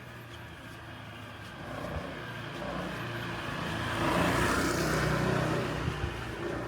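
A road vehicle passing by: engine hum and tyre noise building up, loudest a little past the middle, then fading away.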